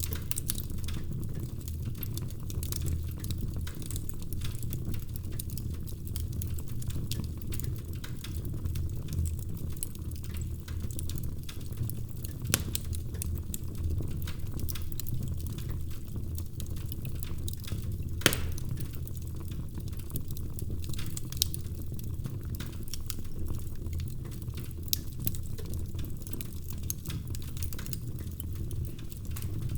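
Wood fire crackling in a fireplace: a steady low rumble of flames under a constant scatter of small snaps and ticks, with a few sharper pops, the loudest about eighteen seconds in.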